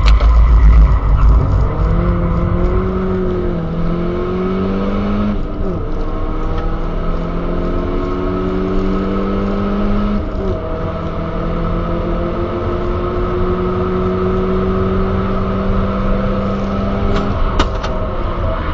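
Turbocharged Skoda Octavia engine with a Supersprint exhaust and K&N intake, heard from inside the cabin, pulling hard on a track straight. The engine note climbs steadily through the revs, drops with an upshift about five seconds in and again about ten seconds in, and climbs again each time. Near the end the note fades as the driver lifts off the throttle.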